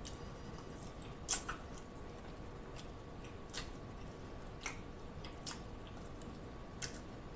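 A person chewing pieces of baked Cornish game hen: faint, scattered mouth clicks and smacks, roughly one a second, the loudest a little over a second in.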